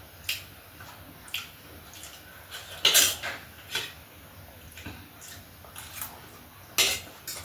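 Cutlery clinking and scraping against a plate or bowl during a meal: a handful of separate sharp clinks, the loudest about three seconds in and another near the end.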